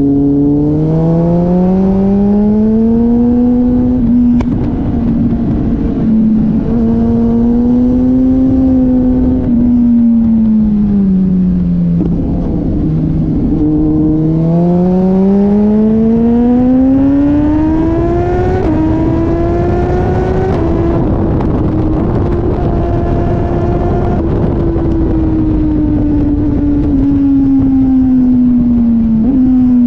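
Sport motorcycle engine on track, its pitch climbing through the revs and stepping at gear changes, then falling as it slows and climbing again, several times over. A steady rush of wind noise runs under it.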